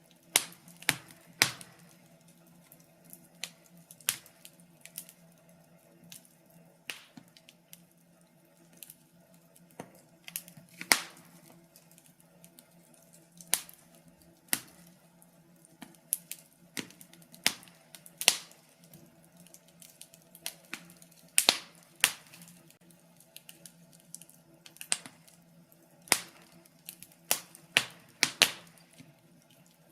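Wood fire in a fireplace crackling: irregular sharp pops and snaps from the burning logs, some much louder than others, over a faint steady low hum.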